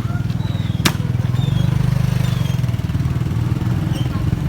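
A small engine running steadily with a rapid low pulsing, with a sharp click just under a second in.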